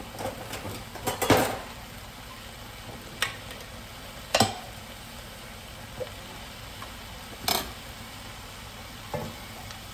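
A glass jar of broth being worked open with a jar opener: scattered sharp clicks and clanks of metal on glass, the loudest about a second in and again just past four seconds. A faint steady sizzle of the pot cooking runs underneath.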